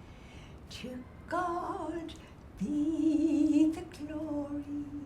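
A woman humming a slow, wordless melody in three phrases, the last two held on long, steady notes.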